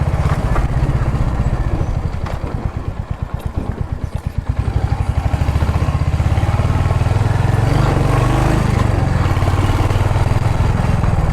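Motorcycle engine running under way. A couple of seconds in it eases off, its separate firing pulses standing out, then it pulls again and holds steady and strong.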